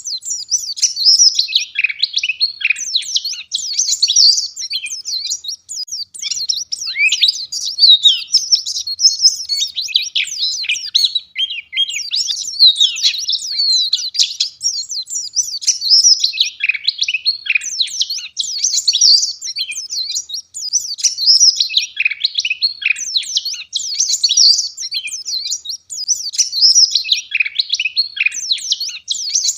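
A white-eye (pleci, Zosterops) singing in full voice: a fast, dense, high-pitched twittering song, in long phrases of several seconds broken by brief pauses.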